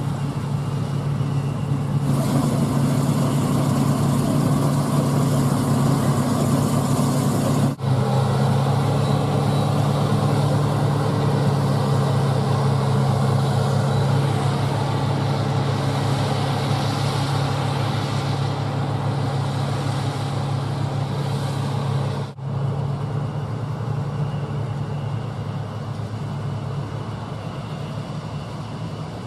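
Diesel engines of harvest machinery running steadily under load, with a constant mechanical hiss above the engine drone. The sound drops out briefly twice, about eight and twenty-two seconds in.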